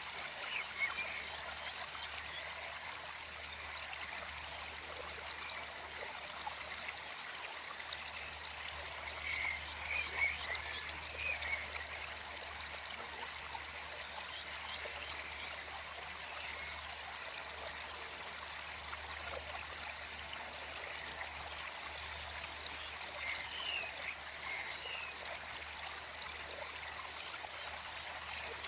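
Small forest stream flowing steadily, with short groups of quick, high chirps from small birds a few times over it, the loudest about a third of the way in.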